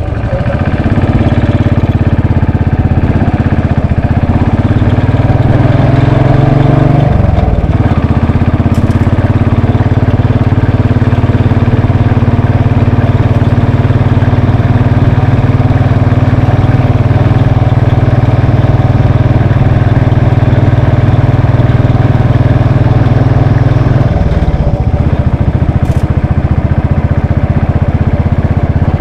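Royal Enfield Bullet 500's air-cooled single-cylinder engine running under way, its note rising as it pulls. The note dips briefly about seven seconds in, as on a gear change, then holds steady, and drops again about 24 seconds in.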